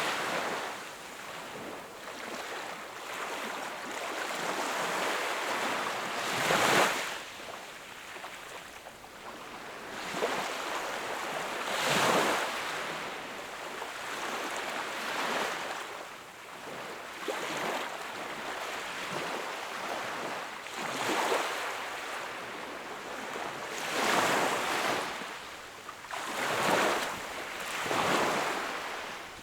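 Sea waves breaking on a shore, a wave surging up every few seconds over a steady wash of surf.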